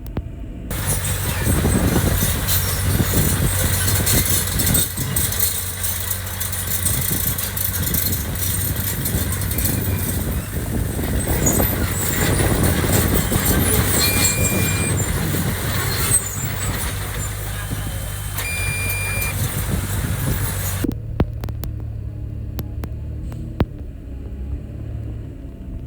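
Heavy construction machine's diesel engine running with a steady low hum, under a loud rattling, rushing noise that starts just under a second in and stops abruptly about 21 seconds in. There are two brief high squeals near the middle and a few sharp clicks near the end.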